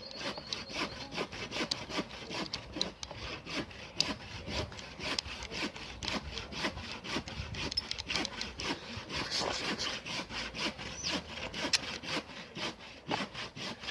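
Hand saw cutting through wood in quick, steady back-and-forth strokes, about three a second.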